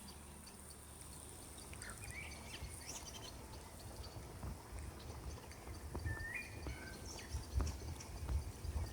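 Quiet outdoor ambience with a small bird giving a few short chirps, about two seconds in and again around six seconds, over a steady faint high hiss and scattered soft low thumps toward the end.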